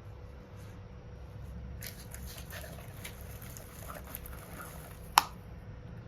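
Small plastic pieces and charms clicking and pattering lightly as they are handled in slime, with one sharp click about five seconds in.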